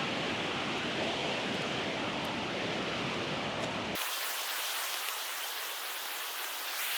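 Steady rush of flowing water. About four seconds in it changes suddenly to a thinner, hissier rush with no low end.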